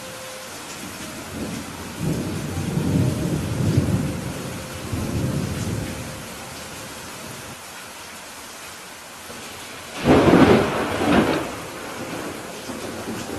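Steady rain in a thunderstorm. Thunder rumbles low from about two seconds in for several seconds, then a louder, sharper thunderclap comes about ten seconds in.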